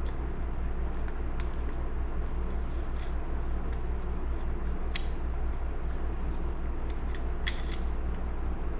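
A handful of light metallic clicks and taps as the small retainer screw for a chainsaw carburetor's metering lever is worked in, the clearest about halfway and near the end. A steady low hum runs underneath.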